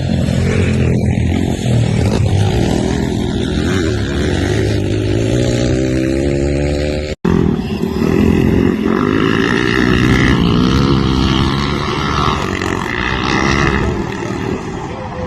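Pit bike engine revving hard, its pitch climbing and dropping again and again. The sound cuts out for an instant about seven seconds in.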